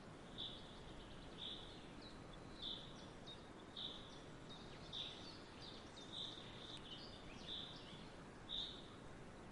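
A bird repeating a short, high chirp about once a second, eight times, with a few fainter chirps in between, over a faint steady outdoor background hiss.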